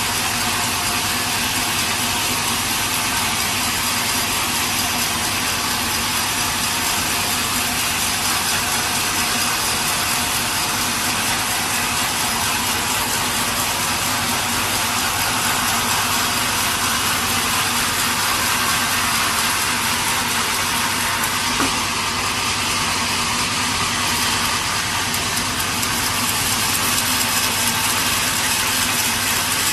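Sawmill machinery running steadily with a dense, even hiss and a low hum underneath.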